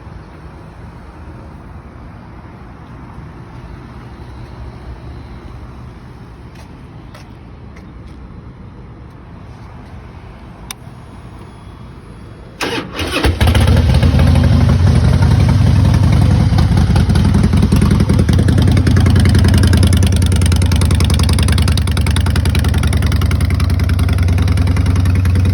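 2003 Harley-Davidson Heritage Softail's V-twin firing up through Vance & Hines aftermarket pipes about halfway in, after a few faint clicks over low background noise. It catches at once and settles into a loud, steady, deep idle.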